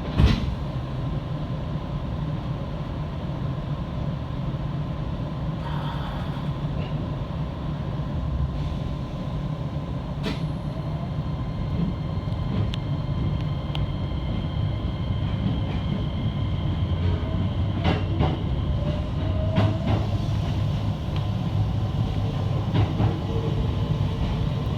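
Electric train running along the line: a steady low rumble with a faint steady tone and a few sharp clicks.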